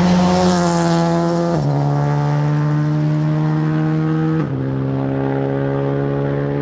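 Rally car engine accelerating, its pitch climbing slowly and dropping sharply at two upshifts, about a second and a half in and again about four and a half seconds in.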